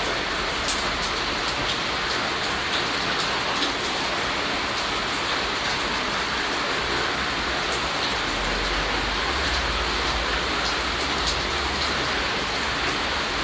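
Steady rainfall: a dense, even hiss of drops with scattered single drop ticks on top. A low rumble comes in a little past halfway.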